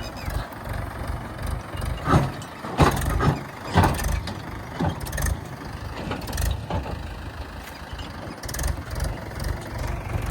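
Heavy diesel machinery engine running steadily, with a run of sharp knocks or clanks about two to five seconds in.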